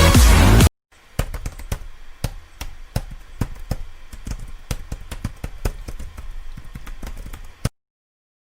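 Electronic dance music cuts off suddenly just under a second in. Then come about six seconds of irregular sharp taps and clicks, several a second, over a low hum, stopping abruptly near the end.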